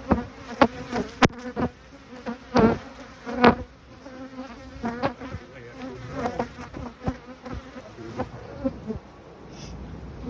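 Honeybees buzzing over an open hive, a steady hum, with frequent sharp taps and knocks that are loudest and most frequent in the first half.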